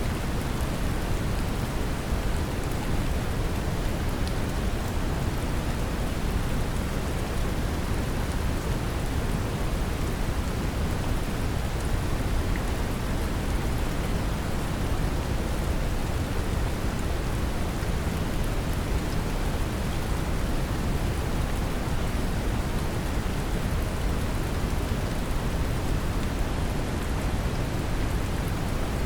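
Brown noise mixed with steady rain: an even, deep rushing hiss heaviest in the lows, with faint patter of drops on top, unchanging throughout.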